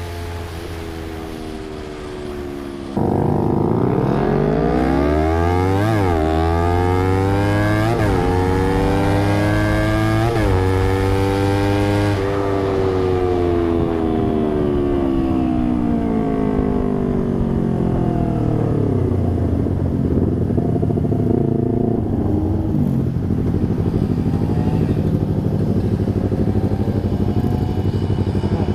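Honda CBR250RR engine through an Austin Racing aftermarket exhaust, running loud. About three seconds in it suddenly gets louder, the revs peak sharply three times about two seconds apart, then the pitch falls slowly over several seconds and settles to a steady lower running note.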